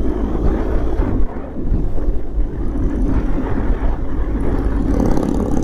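BMW R 1200 GS motorcycle riding at steady cruising speed: its flat-twin engine running evenly under wind rush.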